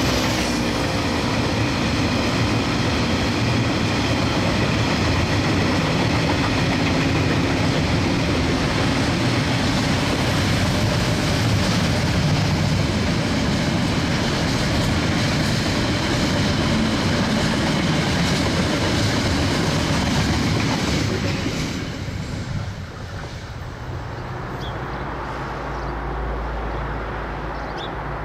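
A KiwiRail diesel-electric locomotive hauls a train under full power, its engine loud and steady alongside the rolling of the train. After about twenty seconds the noise dies away, leaving a quieter low rumble.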